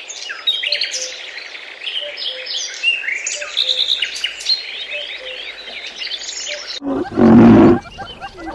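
Dense chorus of many songbirds chirping and trilling over one another. About seven seconds in it cuts off suddenly and a big cat gives a loud, deep roar lasting about a second.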